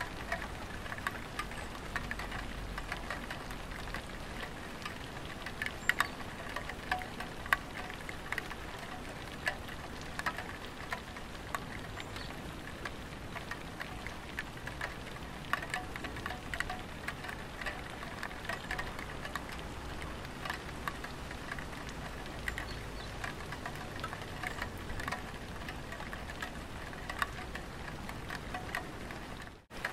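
Light rain falling on a tiled roof: a steady patter with many separate drops ticking at irregular moments. The sound cuts out briefly near the end.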